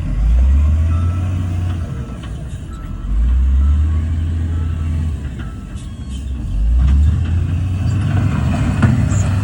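Heavy diesel engine of earthmoving machinery working, its deep rumble swelling under load three times, about every three seconds.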